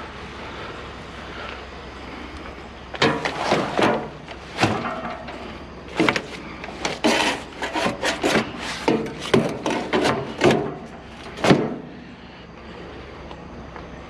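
Scrap items being handled and shifted around on a trailer: a string of knocks, scrapes and clatters starting about three seconds in and dying away about three seconds before the end.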